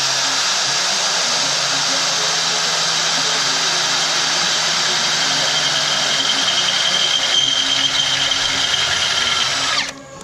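Electric drill running under load with a 3/8-inch bit, boring a bolt hole through the boat trailer's frame. It runs steadily and stops near the end.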